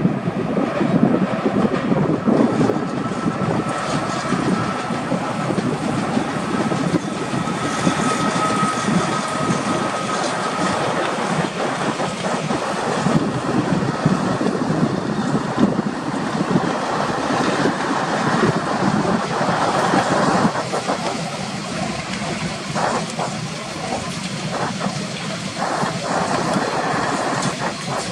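Passenger train hauled by an electric locomotive running past on the line: a steady rumble of wheels on rail with some clatter, and a faint steady whine through the first third.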